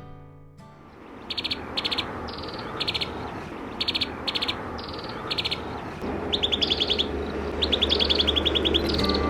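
A small songbird calling: short high notes in pairs, repeated about every half second. From about six seconds in it gives quick, dry trills of rapid notes. A steady hiss of outdoor ambience runs underneath.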